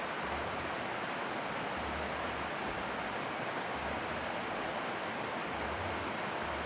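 Steady rushing noise, even throughout, with faint low thumps every second or two.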